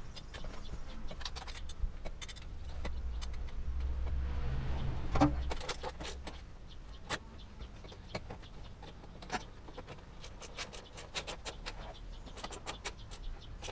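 Irregular light metallic clicks and clinks as a bolt is threaded by hand into the exhaust muffler's mount, with a low rumble and a sharper knock about five seconds in as the muffler is shifted.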